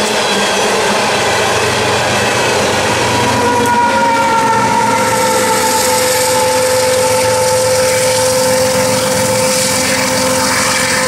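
Empty coal hopper cars rolling past with a steady rumble of wheels on rail. About a third of the way in, two BNSF diesel locomotives at the rear of the train, an ES44AC among them, come by and add a steady whine whose upper tone drops slightly in pitch as they pass.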